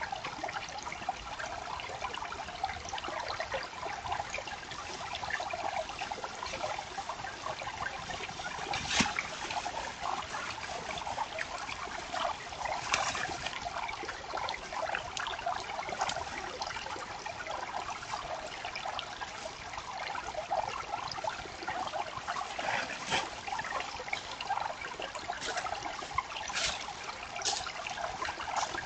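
Creek water trickling and babbling steadily, with a few brief, sharper sounds standing out now and then.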